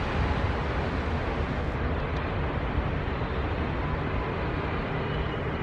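Steady noise of a passenger train running along the track, with wind noise on the microphone.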